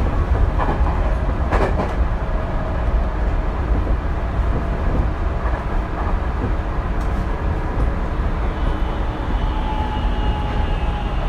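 Tokyu 2020 series electric train running at speed, heard from inside the car: a steady rumble of wheels on rail with a few sharp clicks from the track. A thin electric whine comes in near the end.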